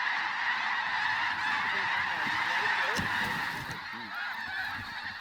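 A large flock of snow geese calling, a dense continuous clamour of high yelping calls with individual calls sliding up and down, plus a brief knock about three seconds in.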